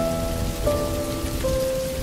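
Steady rain falling, with a soft slow melody of held musical notes over it, each note changing to the next about every 0.7 seconds.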